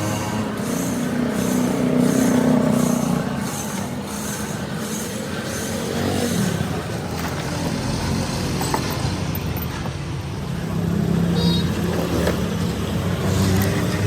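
A machine running steadily with a low hum, with a regular faint ticking for the first few seconds.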